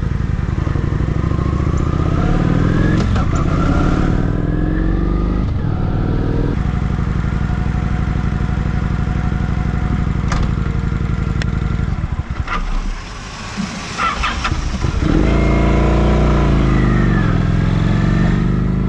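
Motorcycle engine running under way, its pitch climbing and then dropping back several times as it accelerates through the gears. It goes quieter for a couple of seconds after the middle, then comes back loud with the pitch rising and falling.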